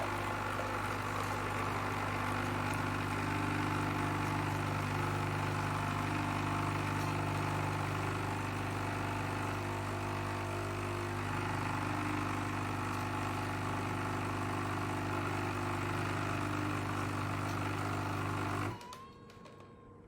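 Nescafé Dolce Gusto Piccolo capsule machine's pump running steadily as it pushes water through a capsule, a level drone that cuts off suddenly near the end.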